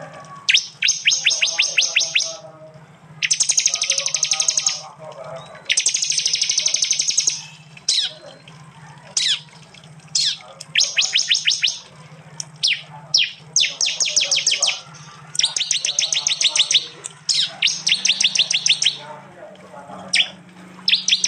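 Prinia (prenjak) calls: repeated fast bursts of sharp, high notes, about ten notes a second, each burst lasting one to two seconds and separated by short pauses. A steady low hum runs underneath.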